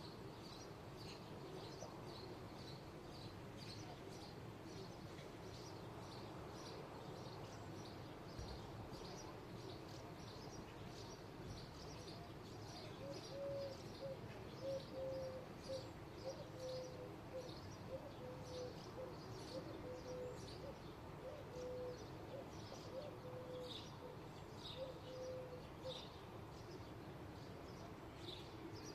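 Small birds chirping over and over, short high notes about one or two a second. Through the middle a lower series of short, pitched cooing notes joins in. All of it sits over a faint, steady low background rumble.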